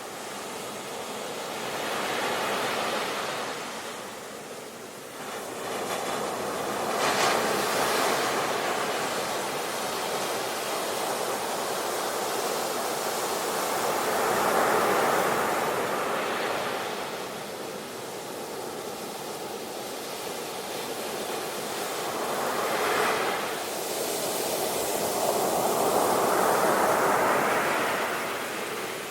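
Ocean waves breaking on a shore, one wave after another rising and washing out about every five to eight seconds, with a sharper break about seven seconds in and again near twenty-three seconds.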